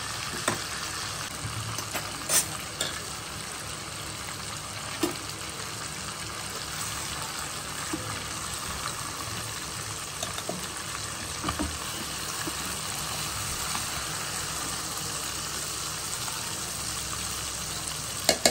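Masala-coated chicken leg quarters sizzling in hot oil in a nonstick kadai, a steady frying hiss. A few sharp knocks of a spatula against the pan come as the pieces are lifted out.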